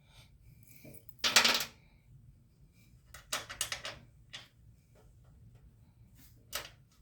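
Small metal objects clinking and knocking: one louder clatter about a second in, then a quick rattle of clicks about three seconds in and a few single clicks near the end.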